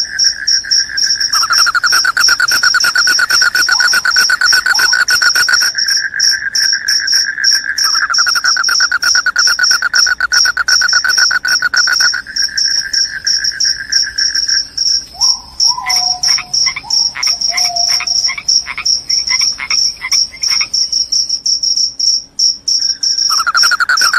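Crickets calling: a high, steady trill throughout, with a lower trill that starts and stops twice and a run of short chirps in the second half.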